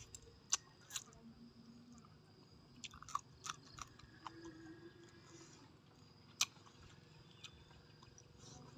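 A man chewing a mouthful of roast duck and raw vegetables close to the microphone, with a few sharp crunches standing out.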